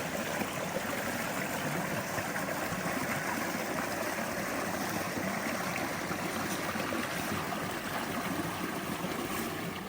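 Creek water splashing steadily over a waterfall, an even rushing sound.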